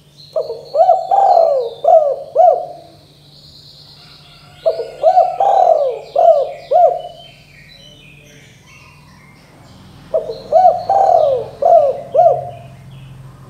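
Spotted dove (tekukur) cooing: three phrases of several coos each, a few seconds apart. Small birds chirp faintly in the background over a low steady hum.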